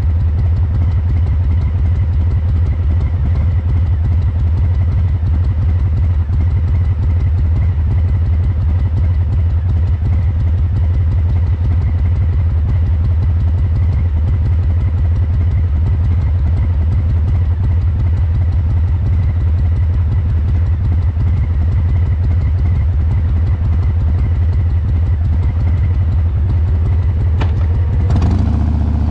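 Harley-Davidson Breakout's Milwaukee-Eight 114 V-twin idling steadily through COBRA Neighbor Hater slip-on mufflers, fuel-injection tuned for the lumpy 'three-beat' idle. Just before the end there is a click and the engine note begins to change.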